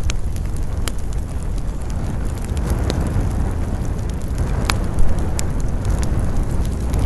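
Wood campfire crackling, with scattered sharp pops and snaps, a few of them louder, over a steady low rumble of wind.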